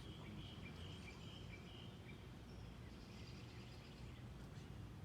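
A bird calling a quick run of short high notes in the first second and a half, then a few thinner, higher notes later, over faint low outdoor noise, with a few faint knocks.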